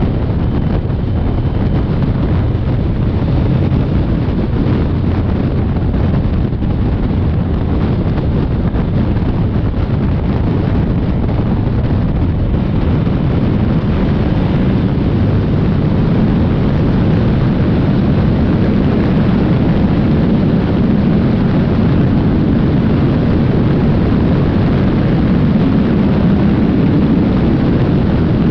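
Steady wind rush buffeting the microphone over the running engine of a Honda NC750X motorcycle's parallel twin, ridden at a steady speed.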